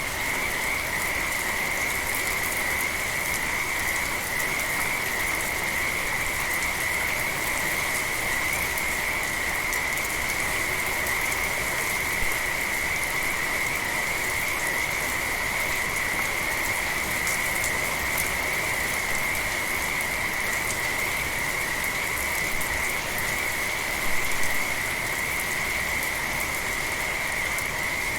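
Steady rain falling, with a continuous high-pitched chorus of frogs calling without pause over it, and a couple of brief louder drips or splashes, one about halfway and one near the end.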